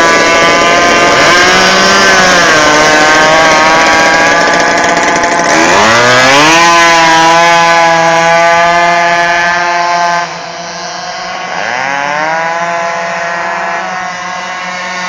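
Small engine of a radio-controlled power boat running at high revs. Its pitch dips and climbs back three times. It gets quieter about ten seconds in.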